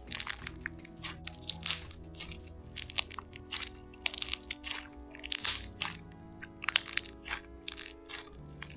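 Slime being squeezed and worked in the hands, giving off a run of sharp crackling pops, several a second, as the air pockets in it burst. Soft background music plays underneath.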